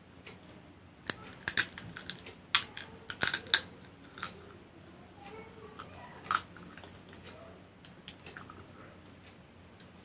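Dry crunchy snack being bitten and chewed, picked up by mouth off a sheet of newspaper. A cluster of sharp crunches comes between about one and four seconds in, one more about six seconds in, with quieter chewing between.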